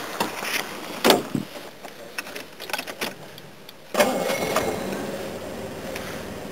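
A few light clicks and knocks, then about four seconds in the 1969 Jaguar XJ6's engine starts with a sudden burst and keeps running.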